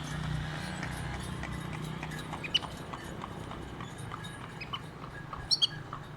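Goldfinch singing: a run of short, clicky twittering notes, a few a second, with two louder, sharp double notes near the end. A low steady hum underneath fades out in the first couple of seconds.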